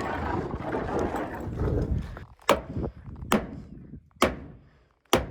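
A rough scraping on a wooden subfloor sheet, then four sharp knocks about a second apart: blows of a hammer on a tongue-and-groove sheathing panel, driving it into its groove.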